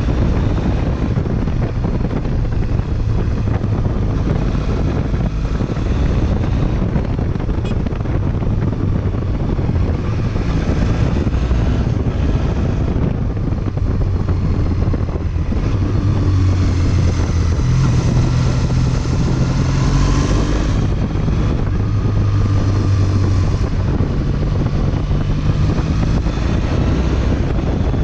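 Triumph Bonneville parallel-twin engine running under way, its pitch rising and falling again and again as the bike accelerates and shifts gears, with wind noise over the microphone.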